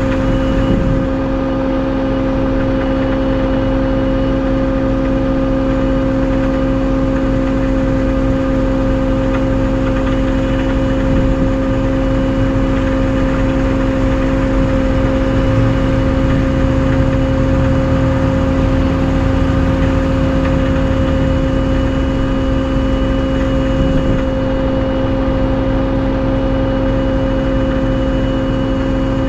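Tow truck running while it works a winch, with a steady, unchanging whine over an engine rumble.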